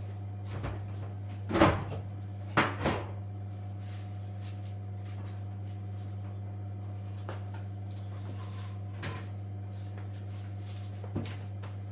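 A few knocks and clunks from work on a washing machine, the loudest about one and a half seconds in and a quick pair a second later, then two fainter ones near the end, over a steady low hum.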